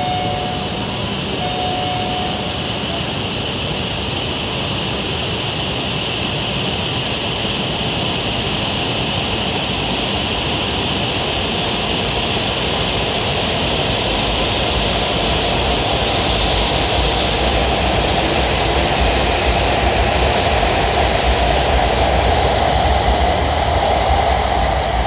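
Shinkansen train pulling out past the platform, a steady rushing run noise that slowly builds as the cars go by, with a low rumble growing stronger in the second half. Two short tones sound about a second in.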